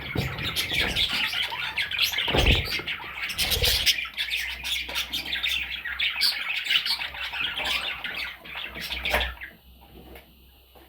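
Parrots chattering and squawking in a busy stream of short calls, with a couple of low thumps early on. The chatter stops about nine seconds in, leaving a few faint clicks.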